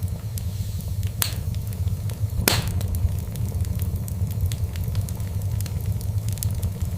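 Wood fire burning with a steady low rumble and frequent small crackles, with two louder sharp pops, the second the loudest, about a second and two and a half seconds in.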